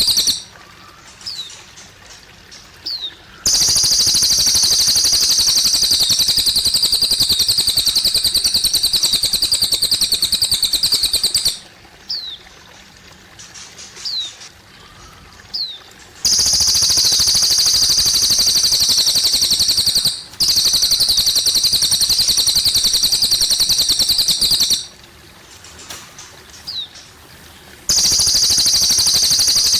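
Cililin bird singing a long, very fast, high-pitched trilling song in stretches of about eight seconds. In the pauses it gives a few short rising chirps over faintly trickling water.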